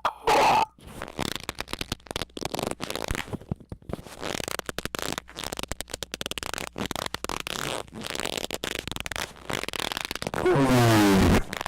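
Harsh squeaking noises: a short loud squeak, then a long run of rapid crackling, rasping squeaks, and a loud distorted pitched squeak about a second long near the end.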